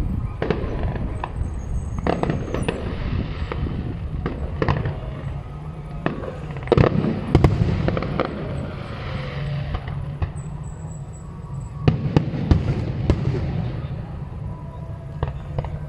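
Fireworks display: aerial shells bursting in a rapid, irregular run of bangs, the loudest about seven seconds in and again around twelve seconds, with a crackling hiss following the middle bangs.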